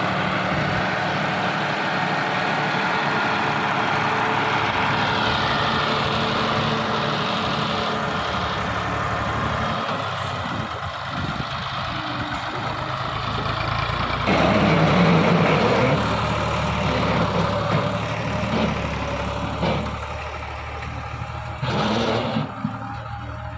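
Diesel tractor engine running steadily at low speed while pulling a loaded trolley down a ramp; its note changes and gets louder about two thirds of the way through. A short loud rush of noise near the end.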